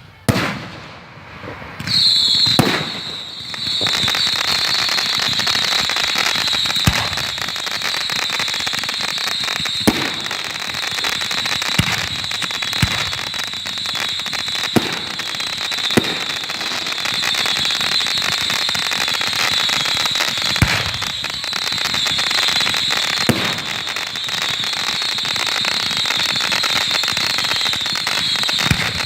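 Fireworks: a bang right at the start, then from about two seconds in a dense, continuous crackling that keeps on, broken by about eight louder sharp bangs.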